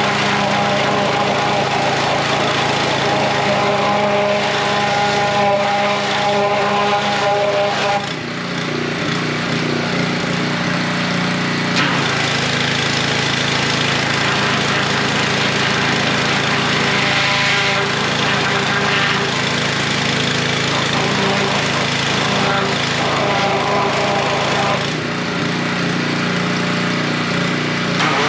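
Small gas-engine pressure washer running steadily with the hiss of its spray. The engine note changes about eight seconds in and again near the end.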